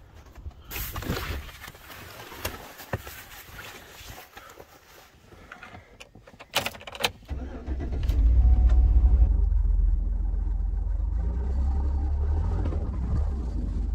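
Chevrolet full-size SUV's V8 engine cold-started in below-freezing weather: two sharp clicks, then it catches about seven seconds in, flares loud for a couple of seconds and settles into a steady idle. Before it, crunching steps in snow.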